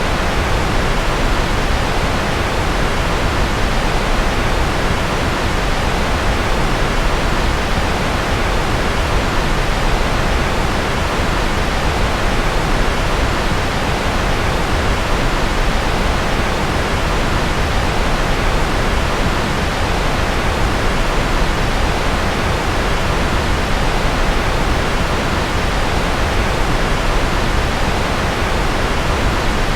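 Steady white-noise sleep track of rocket-style engine noise: an even, unchanging hiss with a deep rumble underneath.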